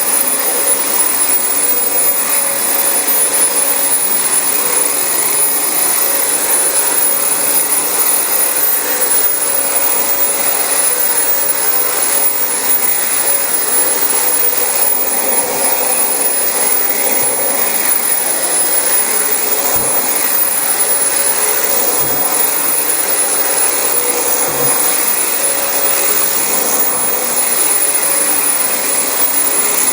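Dyson DC25 bagless ball upright vacuum cleaner running steadily while being pushed over carpet: an even rush of air with a thin high whine from the motor.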